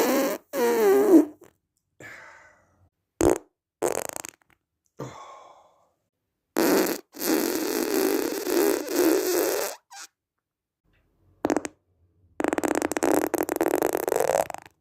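A run of farts: about seven separate bursts, from short pops to one lasting about three seconds, some with a wavering pitch. The last is a rapid fluttering one of about two seconds.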